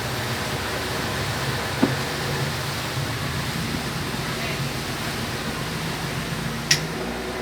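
Steady hum of a small tour boat's motor under a constant rushing noise of water and wind. Two short sharp clicks, about two seconds in and near the end.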